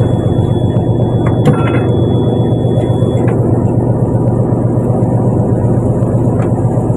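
Fishing boat's engine running with a steady, unchanging drone, and a single sharp knock about one and a half seconds in.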